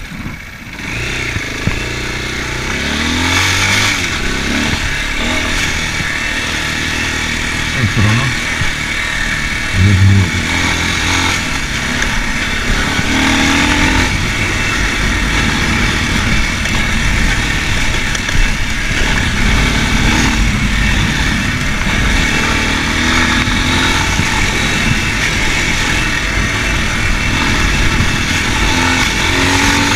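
Racer Panther 300 enduro motorcycle engine running under way, its revs rising and falling, over a steady rushing noise. It is briefly louder about eight and ten seconds in.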